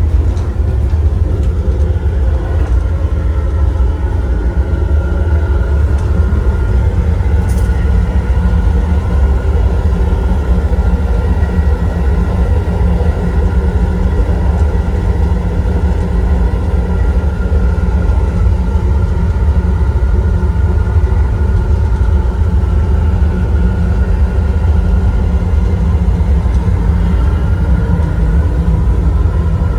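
Taiwan High Speed Rail bullet train running at speed: a steady, loud low rumble with a faint, wavering whine above it, and a brief click about seven seconds in.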